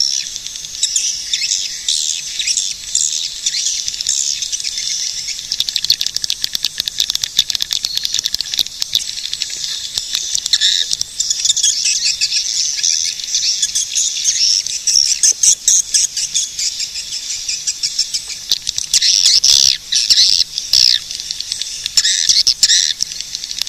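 A dense flock of swiftlets twittering continuously, a rapid, unbroken chatter of high chirps and clicks, swelling a little about two-thirds of the way through.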